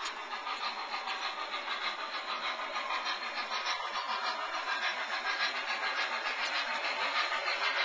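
Model train running on the layout's track, a steady mechanical rattle with a fine, even clicking from motor and wheels.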